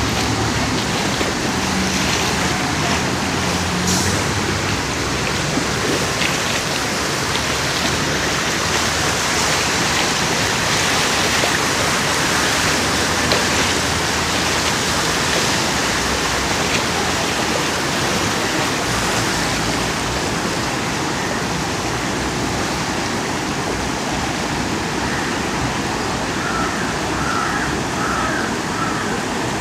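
Floodwater flowing, a steady rush of water, with a low hum under it in the first few seconds.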